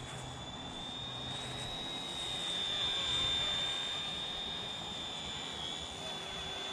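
Mini RC helicopter in flight: its small electric motor and rotors give a steady high whine, the pitch nearly level, swelling a little louder about halfway through.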